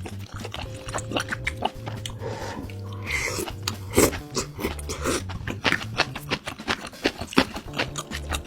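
Close-miked eating: chewing and crunching of food, a dense run of short crisp clicks with a loud crunch about four seconds in, over quiet background music.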